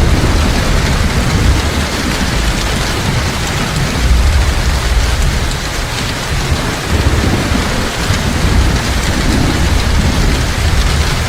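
Heavy rain falling steadily, with a low rumble of thunder rising and falling beneath it.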